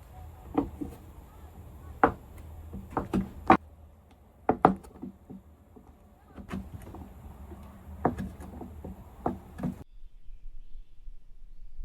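Irregular knocks and clicks of things being handled and set down, a dozen or so over about ten seconds, the loudest around two, three and a half, and four and a half seconds in. The sound cuts off abruptly near the end.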